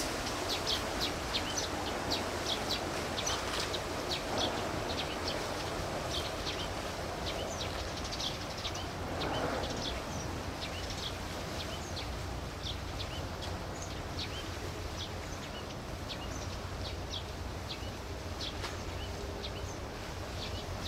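Small birds chirping repeatedly in short, high notes over a steady low rumble of outdoor background noise, which swells briefly about halfway through.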